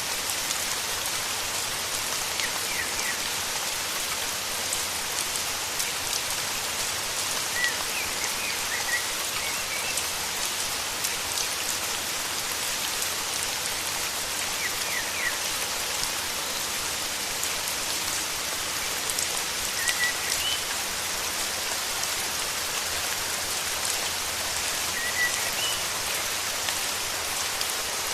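Steady rain falling, with scattered individual drops ticking through it, in a rainforest. Brief high bird chirps come through the rain now and then, about half a dozen times.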